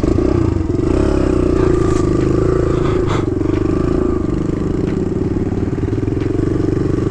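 Kawasaki KLX110 dirt bike's small single-cylinder four-stroke engine running under steady throttle on a trail climb. It gets suddenly louder at the start and holds there, with a couple of faint knocks partway through.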